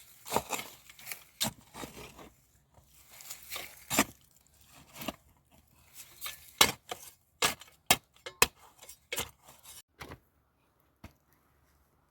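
Dry wood and brush being handled: irregular sharp snaps and cracks with short stretches of rustling, the loudest cracks coming in a quick cluster past the middle, then it falls quiet toward the end.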